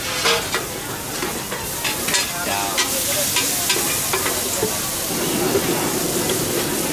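Pad thai noodles sizzling on a large flat pan while two metal spatulas toss them, scraping and clacking against the pan surface over and over.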